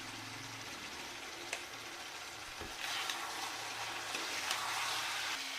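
Mutton pieces frying in oil in a pan, a steady sizzle that grows louder about three seconds in, with a couple of light knocks.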